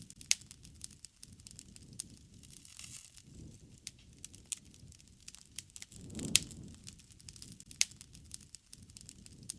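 Wood campfire crackling: irregular sharp pops and snaps over a low rush of flame that swells at times, most strongly about six seconds in.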